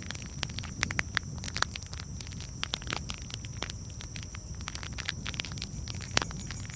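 Campfire crackling: irregular sharp pops and snaps over a steady low rumble of burning, with a louder pop about six seconds in.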